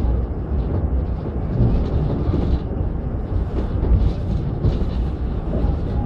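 Steady low rumble of a moving passenger train, heard from aboard the train as it rolls past a yard of standing coaches.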